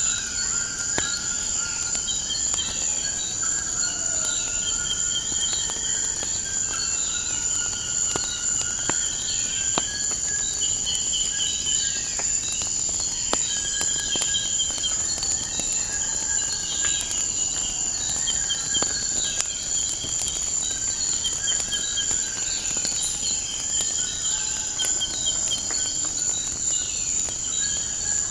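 Steady high-pitched chorus of crickets, with birds chirping over and over and scattered sharp crackles of a wood fire.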